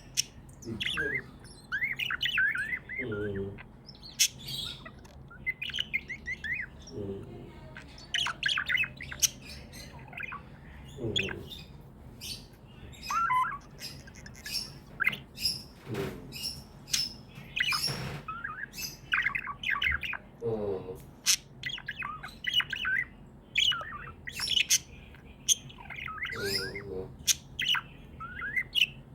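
Pet budgies chirping and squawking in a steady stream of short, quick, overlapping calls.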